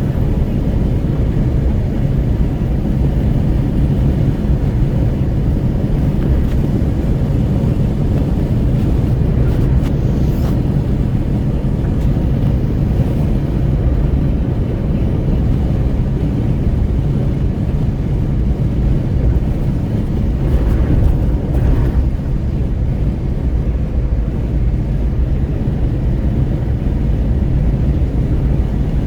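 Wind rushing at an open window and road noise inside a Renault Kwid 1.0 cruising on the highway: a loud, steady low rumble. A brief higher hiss rises and fades about two-thirds of the way through.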